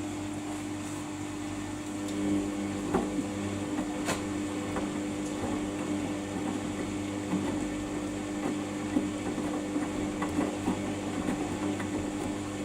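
Samsung washing machine running with a steady motor hum. From about two seconds in, irregular light clicks and knocks sound over the hum.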